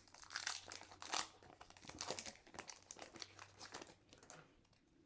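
Foil Pokémon TCG booster pack wrapper crinkling in the hands in a run of irregular crackles, as the pack is torn open and handled.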